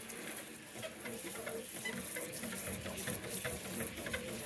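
Kitchen clean-up noises: scattered light clicks and knocks of dishes and utensils over a faint steady hiss.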